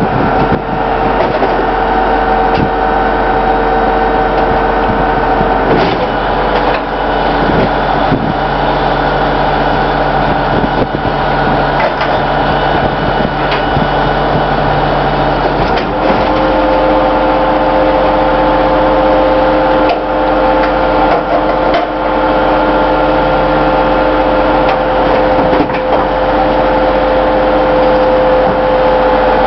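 Garbage truck running, a steady engine drone with whining tones that shift in pitch about six seconds in and again about sixteen seconds in.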